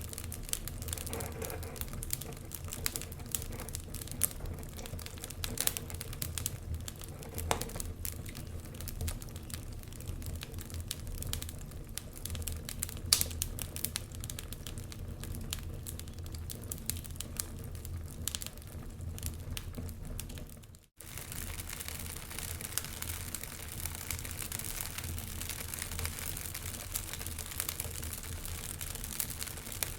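Wood fire in a fireplace crackling, with irregular sharp pops over a steady low rumble. The sound cuts out briefly about two-thirds of the way through, then carries on.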